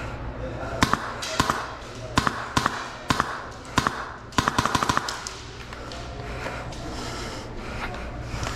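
Airsoft gun firing: several single shots about half a second apart, then a quick burst of about eight shots near the middle, followed by only a low background murmur.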